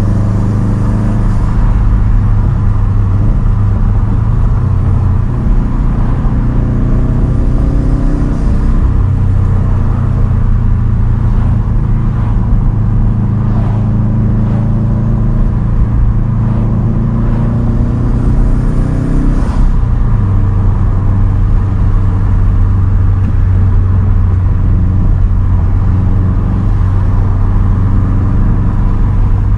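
2010 Subaru WRX STI's turbocharged 2.5-litre flat-four engine running through a single straight-pipe exhaust while cruising under light load. The engine note changes abruptly about two-thirds of the way through, as with a gear change.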